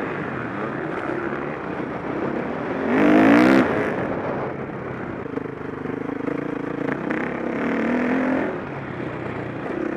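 KTM 525 SX single-cylinder four-stroke motocross engine under riding throttle, its pitch rising and falling. It revs hardest about three seconds in, then holds a steadier pitch.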